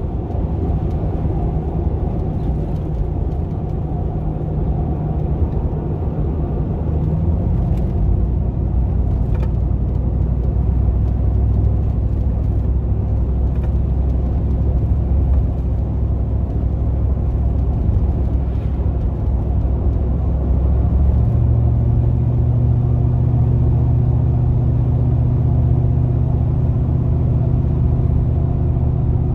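GMC Vandura / Chevy G20 van's V8 engine running under way, a steady drone. About two-thirds of the way through the engine note steps up and holds at the higher pitch.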